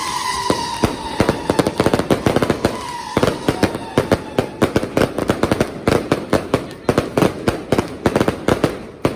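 Fireworks display going off in rapid succession, sharp bangs and crackles several a second, with a thin high whistle that slowly falls over the first few seconds.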